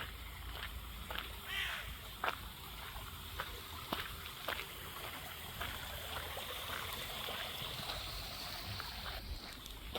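Footsteps walking along an outdoor path, with a steady rush of running water behind them.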